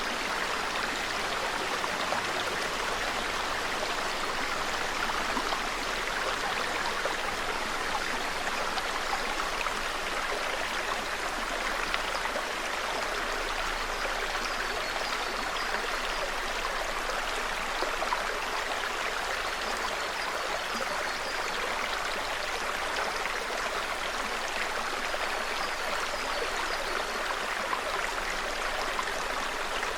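Small mountain forest stream babbling steadily over stones, an even rushing with no breaks. Faint high bird chirps repeat in the middle stretch.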